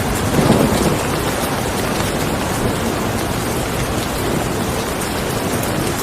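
Steady rain falling and pattering on a surface, with a brief low rumble about half a second in.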